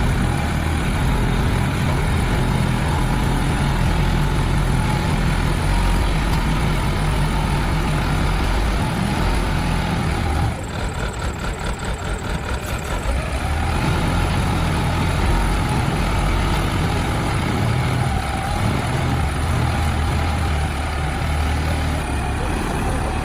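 Backhoe loader's diesel engine running under work, a heavy, steady engine sound. About ten seconds in, it drops and throbs quickly for about three seconds, then returns to the steady run.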